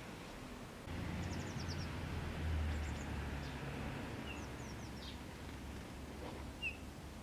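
Small birds chirping in short, quick high series and single notes over a low background rumble that sets in about a second in.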